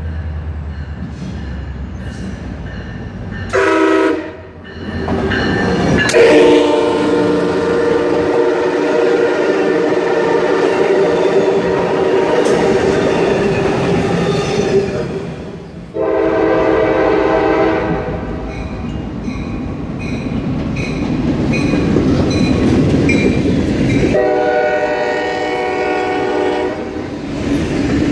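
Train horns blowing four times: a short blast, a long blast of about nine seconds, a blast of about two seconds, then one of about three seconds. Under them a MARC commuter train passes close by with a steady rumble and wheels clattering over the rails.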